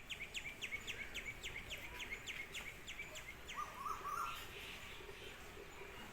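Birds calling outdoors: a rapid run of short chirps that slide downward in pitch, about four a second, for the first three seconds, then a few different, rising bird notes and softer lower calls.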